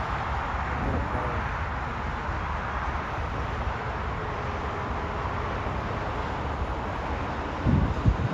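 Steady rumbling roar of a jet airliner on approach, with a brief louder low thump near the end.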